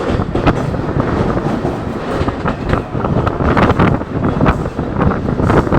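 Mumbai suburban local train running along the track: a steady loud rumble of wheels and carriage with irregular sharp clacks of the wheels over the rails.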